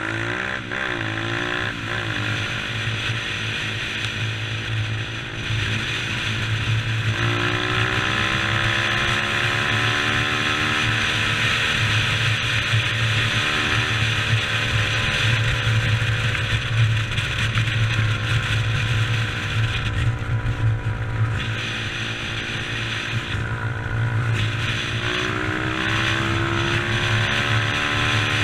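Dirt bike engine running under way, its pitch rising and falling with the throttle, with clear revs about seven seconds in and again near the end.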